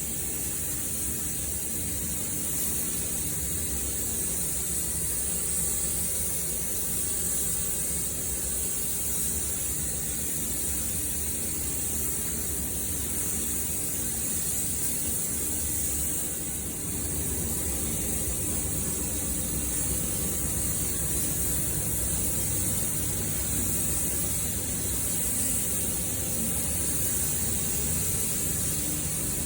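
Steady, unbroken hiss of rushing air over a low hum, with only a slight dip about two-thirds of the way through.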